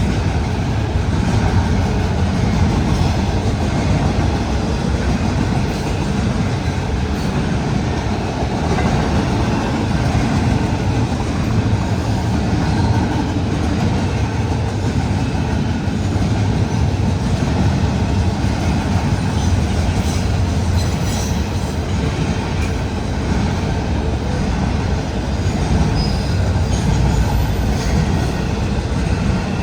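Norfolk Southern intermodal freight train rolling past, a steady loud rumble of railcar wheels on the rails, with a few faint brief high squeals in the second half.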